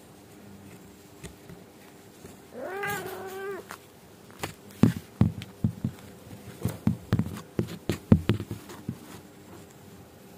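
A cat gives one drawn-out meow, about a second long, rising then holding. It is followed by an irregular run of short, sharp sounds over several seconds.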